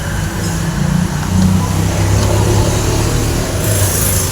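A motor vehicle engine running with a steady low hum, swelling a little about a second in and easing off, with a hiss building near the end.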